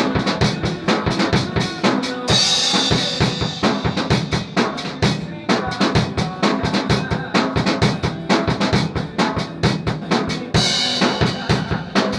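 Drum kit being played, with a fast, steady run of bass drum and snare hits. A cymbal crash rings out about two seconds in and again near the end.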